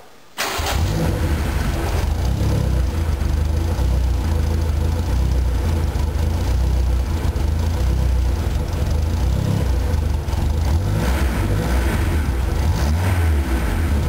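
BMW E21 engine catching on its first start through a freshly built dual exhaust with a centre glass pack, then running with a deep, loud exhaust rumble. The note swells briefly twice near the end.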